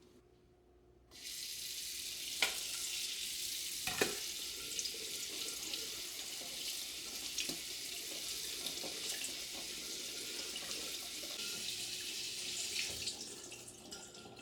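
Water running from a kitchen tap into a sink: turned on about a second in, running steadily, then easing off near the end, with a couple of light knocks early on.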